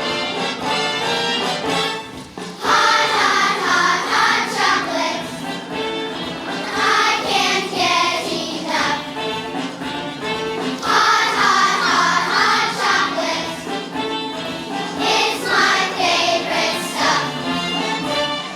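Children's choir singing a song in phrases of a few seconds.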